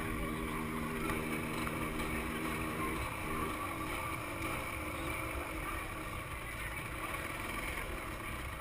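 Two-stroke motorcycle engine running, holding a steady note for about three seconds before the tone breaks up, with wind buffeting the microphone.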